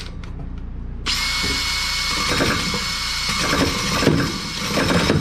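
Power drill running for about four seconds, starting about a second in, with a steady whine over a rough cutting sound as it works at enlarging a pipe hole that was drilled about 1.5 inches off.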